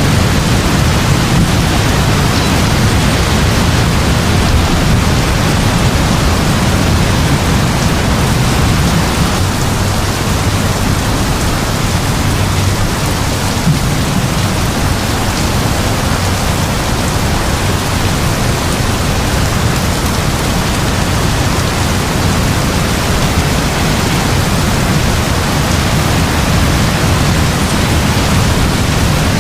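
Heavy rain falling steadily, with a constant low rumble beneath it and no separate thunderclaps.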